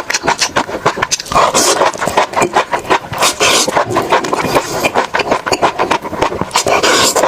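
Close-miked eating sounds: rapid, crisp crunching and chewing, many sharp cracks in quick succession.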